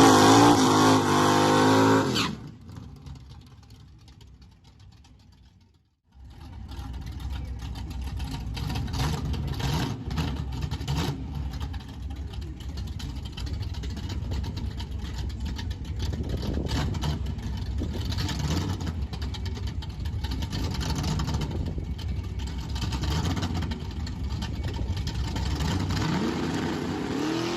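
Naturally aspirated small-block Chevy V8 of a 1968 Camaro drag car revving hard with rising pitch, then dropping away about two seconds in and fading out. After a short break the V8 runs steadily at a lower level with a rapid, uneven pulse, and it revs up again near the end.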